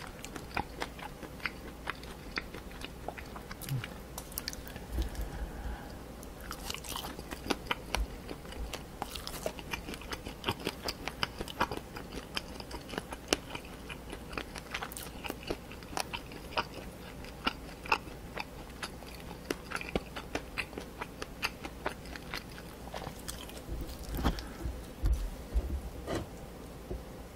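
Close-miked mouth-closed chewing of spicy sauced cartilage meat, a dense irregular run of sharp clicks and crunches. A few low thumps come near the end.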